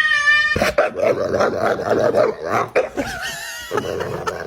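A long, drawn-out cat meow cuts off about half a second in, then a dog barks and yips rapidly, with a short wavering cry about three seconds in.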